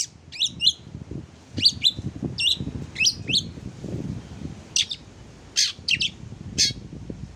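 Oriental magpie-robin (kacer) singing a run of short, sharp chirps and quick falling whistles, about two a second, over a faint low background rumble.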